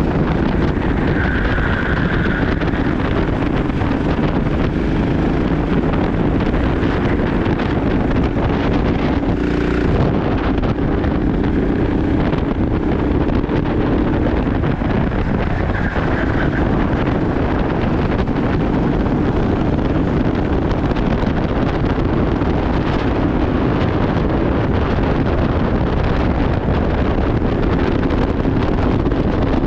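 Kart engine running at race speed, its pitch rising and falling a little as it works through the lap, with wind buffeting the microphone.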